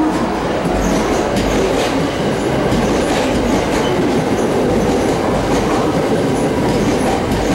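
Limited-express electric train running past the platform: the steady rumble of the cars, with wheels clacking over rail joints.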